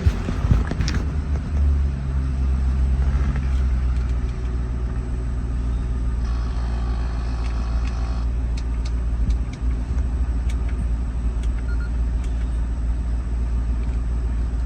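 A 2009 Ford Mustang's 4.6-litre V8 idling steadily, settling into a stable idle about a second and a half in.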